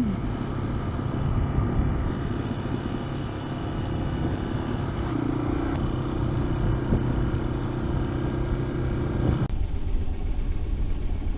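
Yamaha XT225 dual-sport motorcycle's single-cylinder engine running steadily while riding, over a low road rumble. The engine note shifts briefly about five seconds in.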